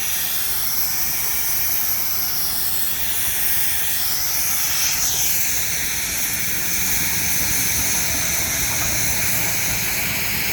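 Steam traction engine venting steam with a steady hiss.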